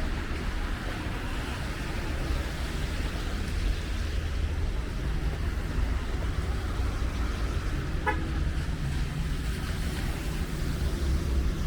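City street traffic running steadily, with one short car horn toot about eight seconds in.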